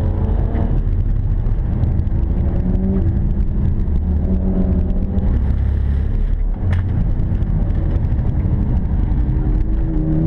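BMW 335i E92's turbocharged 3.0-litre straight-six under load on track, heard from inside the cabin, its pitch rising and falling as the car is driven through corners. A single sharp click comes about two-thirds of the way through.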